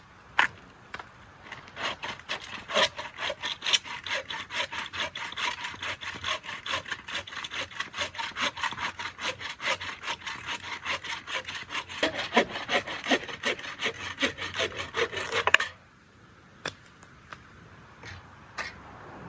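Hand saw cutting through wood in quick, even back-and-forth strokes that go on for about fourteen seconds, then stop suddenly as the cut finishes.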